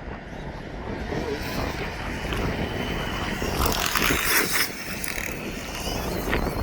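Losi ProMoto electric RC dirt bike riding, its motor whining faintly over the hiss of its tyres on the ground, with wind rumbling on the microphone. A louder rush of noise comes about four seconds in.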